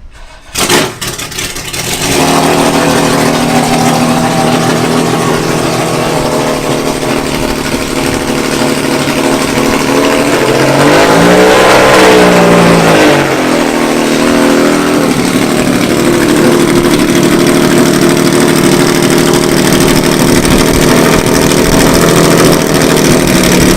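Loud car engine running steadily. About halfway through it is revved up and eased back down once, then held at a slightly higher steady speed.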